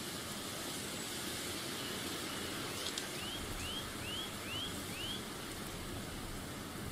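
Steady outdoor background noise with a bird calling a run of five short rising chirps about three seconds in, just after a couple of faint clicks.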